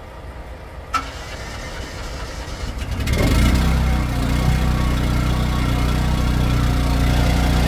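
An engine cranks briefly and starts about three seconds in, then idles steadily and loudly.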